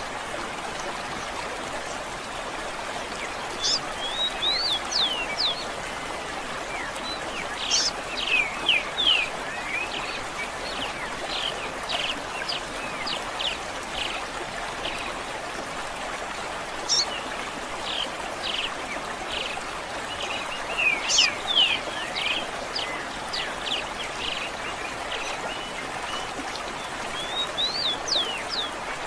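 Songbirds chirping and whistling in short, quick phrases over the steady rush of a stream.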